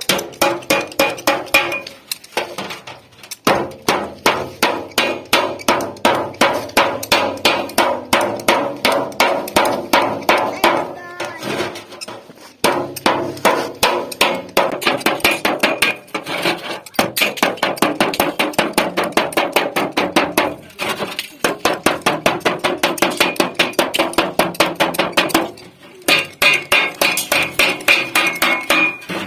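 Hand hammer beating sheet metal from an old refrigerator as it is shaped into a pot: runs of rapid blows, several a second, with a ringing tone, broken by short pauses.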